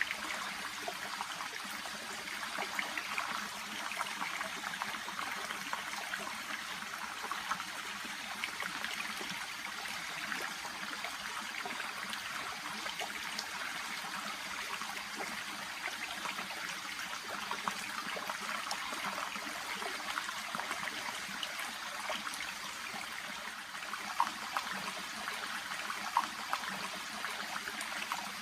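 A shallow brook babbling over and around water plants: a steady trickling rush of water, flecked with small splashes, with a few sharper plinks near the end.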